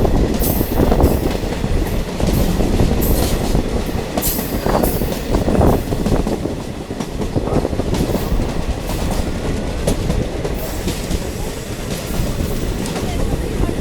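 Diesel multiple unit train running along the track, a continuous rumble with sharp wheel clicks over the rail joints, and a faint high squeal near the end.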